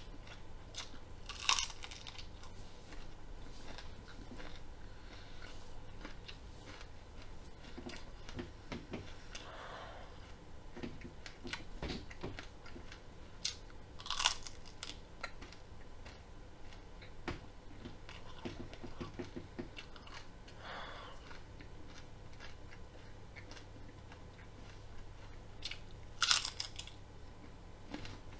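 Raw broccoli florets being bitten and chewed: three sharp, loud crunches about twelve seconds apart as pieces are bitten off, with quieter, irregular chewing in between.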